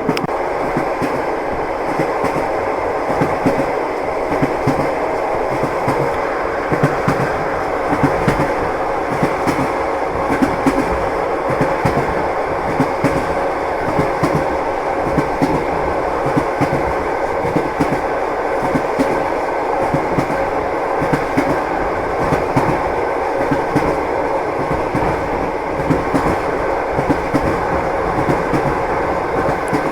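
Train wheels clattering over rail joints in a steady rumble of a moving railway carriage, with frequent small knocks throughout and a faint steady hum.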